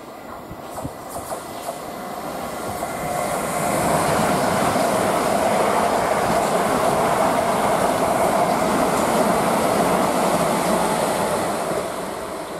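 Gatwick Express Class 387 Electrostar electric multiple unit passing at speed. The rush of wheels on rail builds over the first few seconds, stays loud with a steady tone running through it for about seven seconds, then begins to fade near the end.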